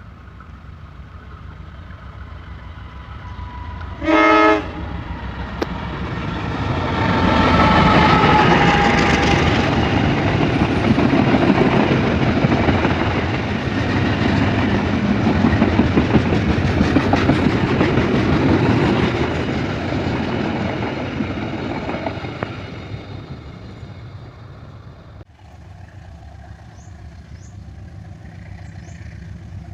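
Diesel train passing: a short horn blast about four seconds in, then the train runs by loudly with wheels clattering on the rails for about fifteen seconds before fading away. Near the end the sound cuts suddenly to a quieter, different background.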